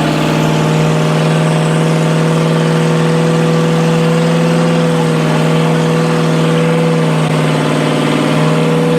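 Car engine held at high, nearly constant revs for several seconds, its pitch barely moving, with a brief dip around seven seconds in.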